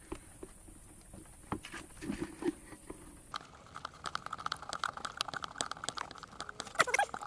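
Rubber intake hose and plastic air filter box of an ATV being worked back together by hand: scattered clicks and knocks, then a few seconds of rapid squeaky rubbing ending in a short sliding squeal.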